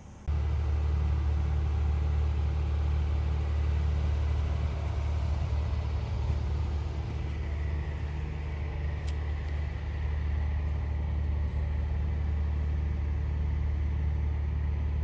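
The gin pole crane's hoist motor running steadily as it lifts a Cummins engine: a loud, even low hum that starts abruptly just after the start.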